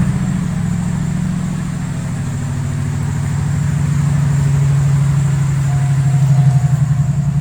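Cadillac Seville's 4.6L Northstar V8 running at a steady idle, with a slight swell in engine speed partway through.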